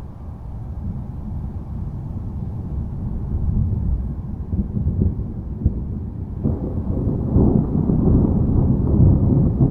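Low, rolling thunder rumbling continuously, swelling louder and fuller about two-thirds of the way through.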